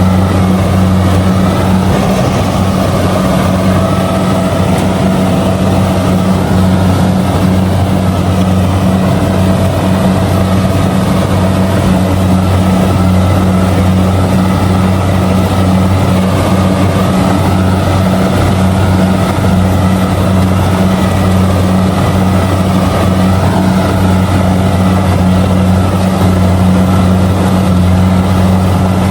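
Kubota DC-70G combine harvester running steadily while harvesting rice, a loud, even low drone that does not change.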